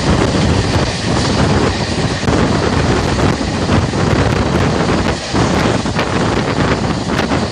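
Wind buffeting the microphone at the open door of a moving passenger coach, over the steady running noise of the train's wheels on the track.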